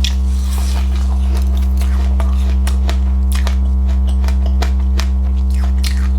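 Crunchy biting and chewing of passionfruit with sesame seeds: many quick, sharp crackles, over a loud steady low hum.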